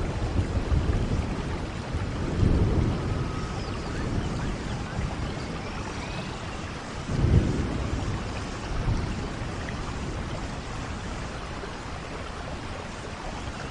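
Steady rain falling in a rainforest, with low rolls of thunder rumbling underneath; the strongest roll swells a little past the middle.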